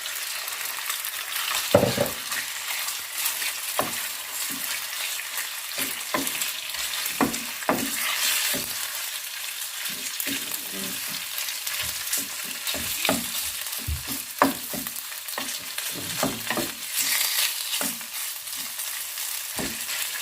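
Flour-coated chicken breast cubes frying in hot oil in a pan on high heat: a steady sizzle with frequent crackles and pops of spitting oil.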